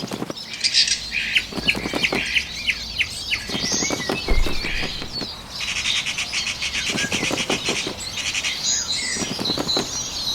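Small birds chirping and trilling, mixed with bursts of flapping wings. A quick run of short, sharp chirps comes early, and a fast buzzy trill comes in the middle.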